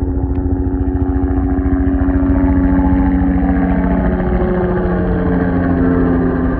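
An engine running steadily with a fast low pulsing, its pitch shifting slightly after the middle.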